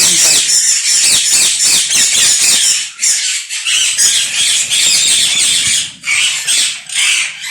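Many ring-necked parakeets in a breeding colony screeching at once: dense, rapid, overlapping shrill calls that keep going with only brief lulls, around a third of the way in and again near the end.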